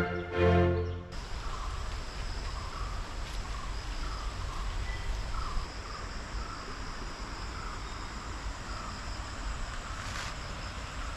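Forest insects such as crickets shrilling steadily, with a short chirp repeating about once a second. Background music ends about a second in.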